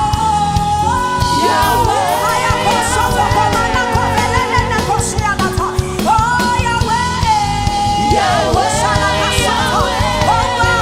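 Live worship song: a singer holds long notes with vibrato and gliding runs over instrumental backing.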